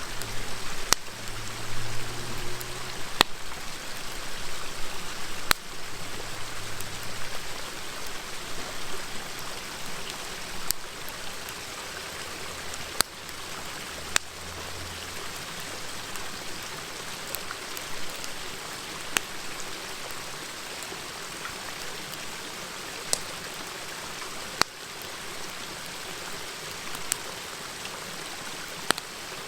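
A steady river murmur with the sharp crackles and snaps of a wood fire, single pops every second or two.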